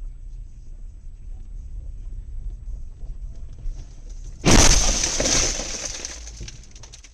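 Low road and engine rumble, then about four and a half seconds in a sudden loud crash with glass breaking and shattering, a vehicle collision, dying away over a second or so.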